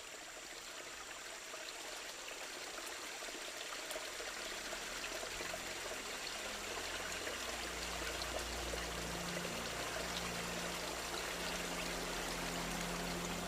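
Flooded river water rushing, growing steadily louder, with a low rumble joining in about five seconds in.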